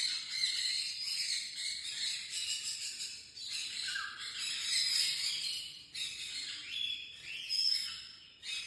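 Parrots chirping and squawking, many high calls overlapping, with a few short falling squawks around four and seven seconds in.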